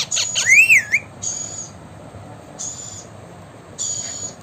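Indian ringneck parrot calling: a wavering whistle that rises and falls in pitch in the first second, with a few quick chirps, then three short, shrill, high-pitched calls about a second and a half apart.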